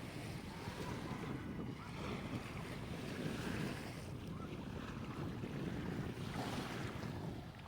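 Small waves washing onto a sandy beach, swelling and easing every few seconds, with wind buffeting the microphone.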